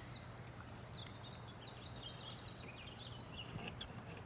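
Birds chirping faintly in the background, many short scattered chirps, over a low steady hum.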